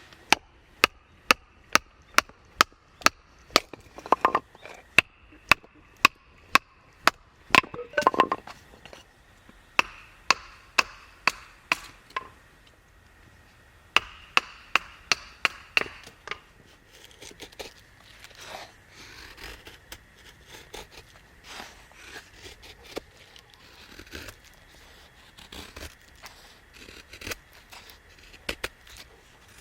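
Repeated sharp strikes, evenly spaced at about three a second, in two runs with a short pause between, then softer scattered knocks and handling noise.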